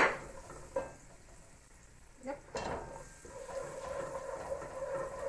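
Chopped garlic and ginger sizzling in hot coconut oil and curry in a large aluminium pot, stirred with a wooden spoon. The spoon knocks against the pot sharply at the start and lightly a few times more.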